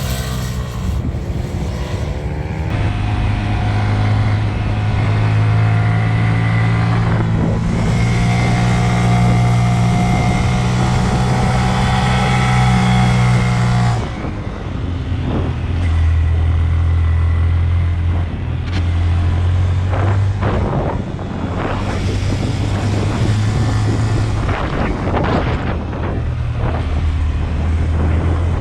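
Honda Grom 125's single-cylinder engine running under way, revs held high and rising for the first half, then the throttle closed about fourteen seconds in and the engine running lower after that, with some short knocks on top.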